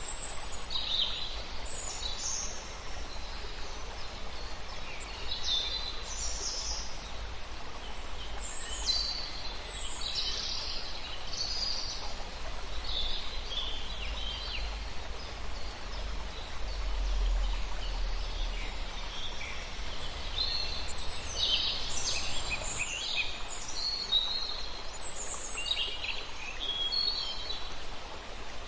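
Several wild birds calling and singing, short chirps and trills that come thick and fast, over a steady background hiss.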